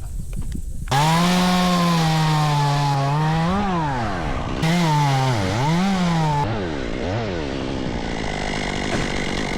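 Chainsaw engine running hard through a cut, starting abruptly about a second in. Its pitch sags several times under load and then picks back up.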